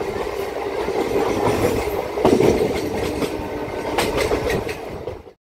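MEMU electric multiple-unit train running, heard from its open doorway: a steady rumble with wheels knocking over rail joints, the loudest knocks about two and four seconds in. The sound cuts off suddenly near the end.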